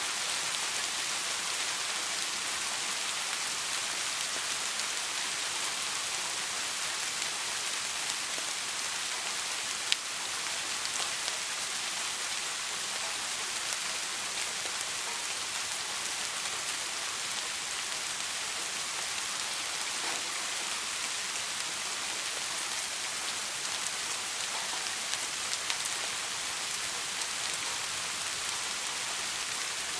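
Steady soft rain: an even hiss with scattered drop ticks, and one sharper click about ten seconds in.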